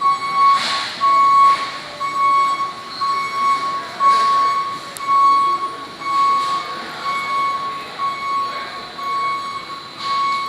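Electronic beeper sounding a steady repeating single-pitch beep, about three beeps every two seconds, over a general background hum.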